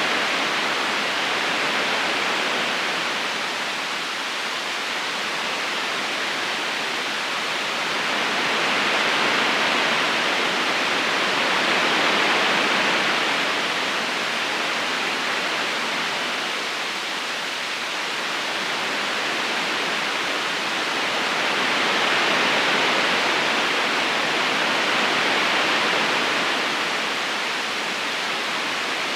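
River water rushing steadily: a dense, even hiss that swells and eases slowly every several seconds.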